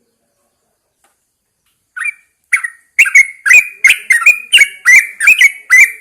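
Yellow-vented bulbul calling: after about two seconds of silence, a loud run of about ten sharp, chirping notes, two or three a second.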